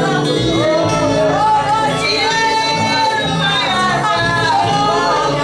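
Worship song: voices singing long, gliding notes over instrumental accompaniment.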